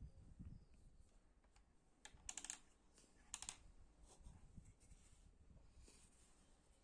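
Faint clicks and taps over near-silent room tone: a quick run of clicks about two seconds in, and another short cluster about a second later.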